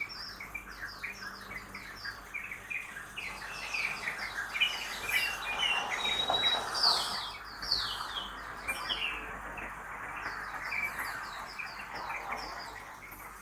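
Many birds chirping rapidly, short falling notes overlapping one another, over a steady hum of city traffic that swells a little midway.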